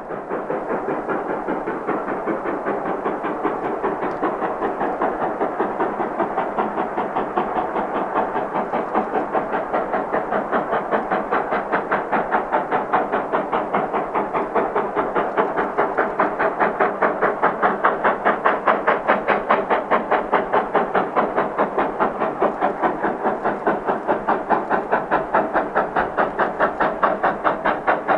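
Narrow-gauge steam train on the move, led by oil-fired K-37 locomotive 493: a fast, steady, even beat of about four pulses a second that grows gradually louder.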